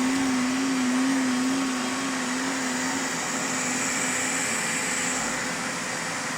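Xiaomi robot vacuum running: a steady motor hiss with a slightly wavering hum that fades after about three seconds.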